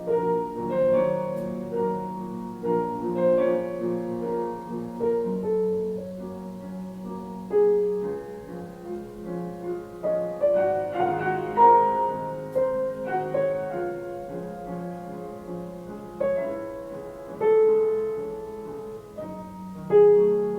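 Solo piano music: a slow melody over held chords, notes struck and left ringing.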